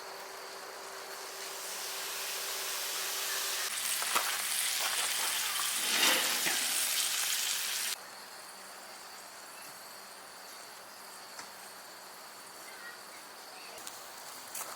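Food sizzling as it cooks, growing louder and cutting off suddenly about eight seconds in. After that there is a quieter background with a steady high insect hum.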